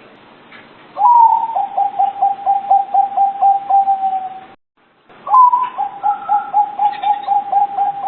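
Zebra dove (perkutut) singing: each phrase opens with a higher note and runs into a quick string of short coos, about three a second. The first phrase breaks off about four and a half seconds in, and after a brief gap a second phrase starts.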